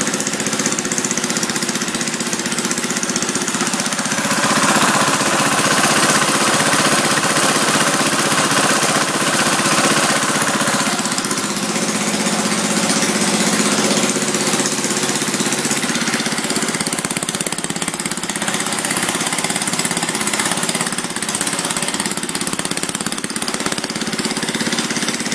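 Small gasoline engine of a portable air compressor running steadily, its carburetor freshly fitted with a new synthetic fuel-pump diaphragm after a clogged pump port had kept it from running. A higher note joins in from about four to eleven seconds in.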